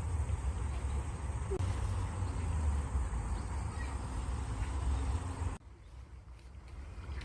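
Outdoor stream water running steadily with a strong low rumble, and a few faint bird chirps over it. The sound drops off abruptly about five and a half seconds in, then builds back up near the end.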